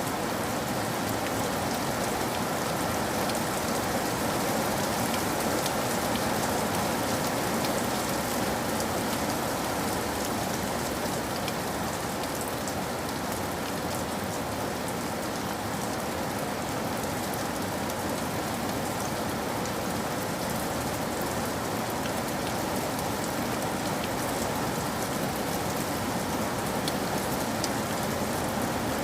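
Steady rain falling and pattering on a surface, with scattered drop ticks.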